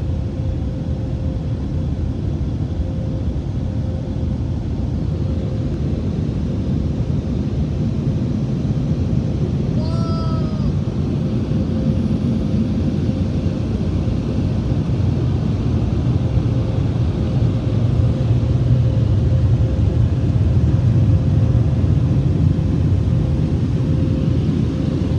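Touchless car wash air dryer blowers running, a loud, steady rush of air with a deep rumble and a faint steady hum, heard from inside the closed vehicle. The blast grows a little louder in the second half as the dryers pass over the truck.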